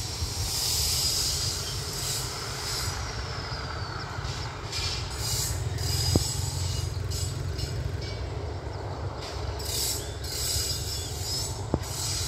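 Distant passenger train hauled by an Alstom diesel-electric locomotive, running on the line. A steady low rumble is topped by a hiss of wheel noise that swells and fades. Two sharp clicks come about six seconds in and near the end.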